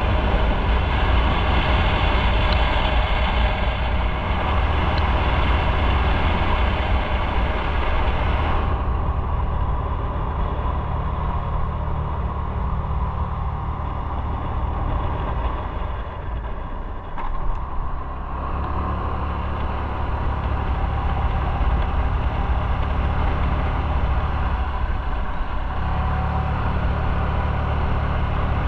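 Motorcycle engine running on the road, with wind and traffic noise. The hiss of wind fades about nine seconds in, the engine sound dips near seventeen seconds, then the wind noise returns as the bike picks up again.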